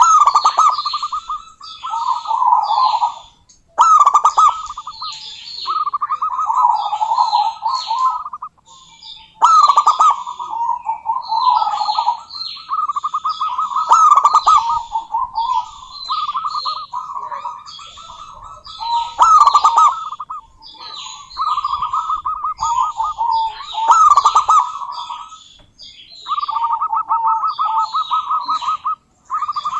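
Zebra doves cooing in rapid, stuttering phrases of one to two seconds, one after another with only short gaps, while high, short chirps sound over them.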